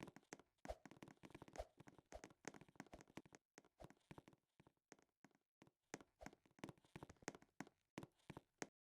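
Faint, irregular tapping and clicking, several small knocks a second with brief gaps.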